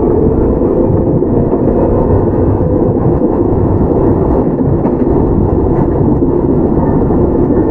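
Steady rumble of a Toyama Chiho Railway 17480 series electric train (ex-Tokyu 8090 series, field-chopper control), heard from inside the car while running between stations.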